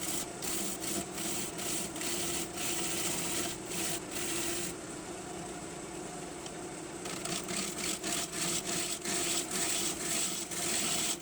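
Wood lathe spinning a green maple bowl blank while a turning tool cuts it, a hissing shear of shavings over the lathe's steady hum. The cutting eases off for about two seconds a little before halfway, then resumes in many short passes.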